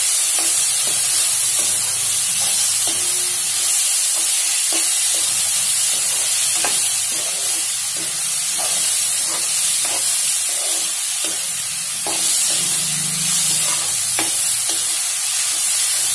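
Sliced onions, tomatoes and green chillies sizzling in oil in a metal kadai, with a metal spoon scraping and clicking against the pan at irregular intervals as they are stirred.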